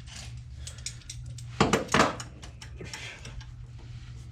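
Thin sheet-steel patch panel clinking and scraping against the car body as it is worked into position, with two louder metallic knocks about a second and a half and two seconds in, over a steady low hum.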